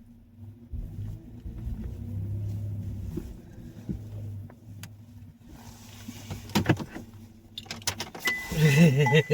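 A vehicle running with a steady low hum, followed by a few knocks and clicks in the second half.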